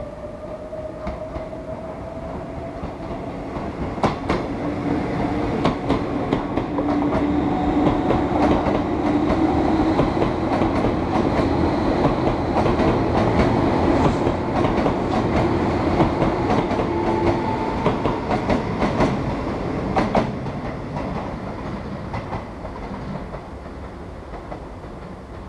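Izukyu 2100 series "Resort 21" electric train running past on the track. The running noise builds as it draws near and fades as it moves away, with sharp wheel clacks over rail joints and a steady hum through the loudest part.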